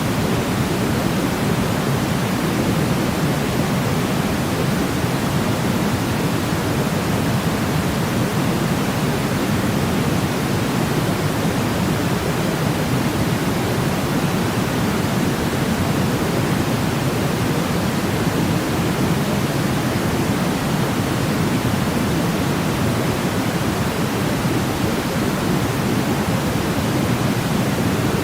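Steady electronic pink-type noise, even and unchanging, heaviest in the low-mid range: a continuous white-noise track for sleep.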